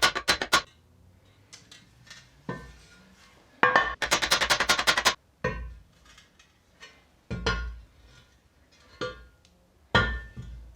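A rear crankshaft oil seal being tapped home into its housing with a hammer: two quick runs of light, ringing metallic taps, about ten a second, then a few single, heavier knocks.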